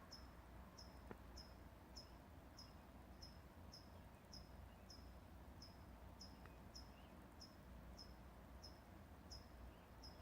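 A bird's faint, monotonous "chip... chip... chip" call, one short high note repeated steadily about every 0.6 seconds.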